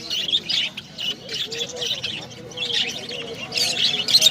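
Many caged small pet birds chirping together in a dense, overlapping chatter of short high calls, with faint voices underneath.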